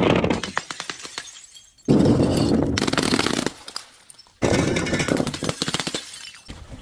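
Crunchy objects being crushed with loud crackling and snapping. The tail of one crush fades out in the first second or so, then two more loud crunches begin about two seconds in and about four and a half seconds in, each breaking into rapid cracks that thin out.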